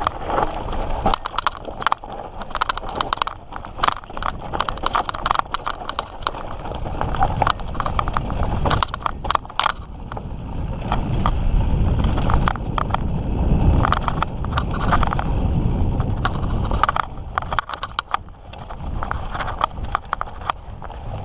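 Mountain bike descending a rough, steep trail: a continuous uneven rattle of clicks and knocks from the bike over rocks and roots. A low rushing sound swells in the middle.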